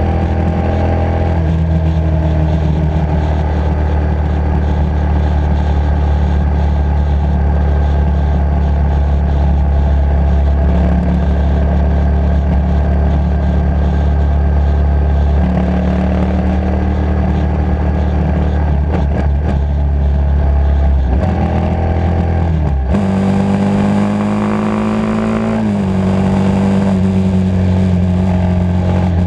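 Motorcycle engine running under way, heard from the bike itself, holding a steady note for long stretches. About 23 s in the note changes abruptly, then the revs climb for a few seconds and settle.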